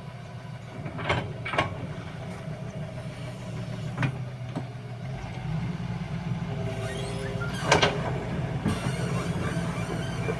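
Excavator's diesel engine running steadily, with sharp metallic clanks now and then from the bucket and gravel, the loudest pair about three-quarters of the way through.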